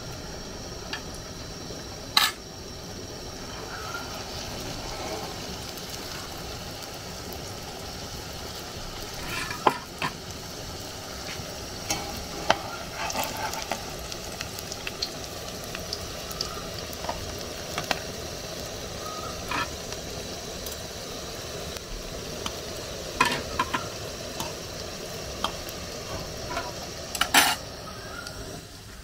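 Plantain dough pieces frying in shallow oil in an aluminium pan, a steady sizzle, with scattered clinks of a metal fork against the pan as they are turned; the sharpest clinks come about two seconds in, near the middle and near the end.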